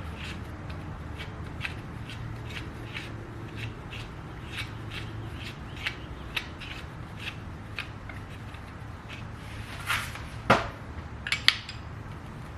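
Light, regular metal clicking at about two clicks a second while parts of a BMX bike are worked on. Near the end come a few louder, sharper metal clanks and clinks.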